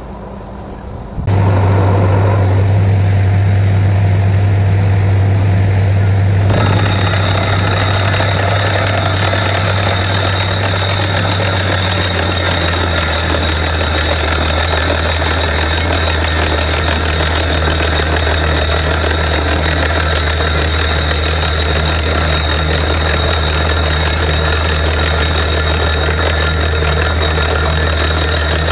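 Truck-mounted borewell drilling rig running. A deep engine hum comes in suddenly about a second in, and a steady hiss with a high ringing tone joins around six seconds in. The engine note drops slightly around twelve seconds.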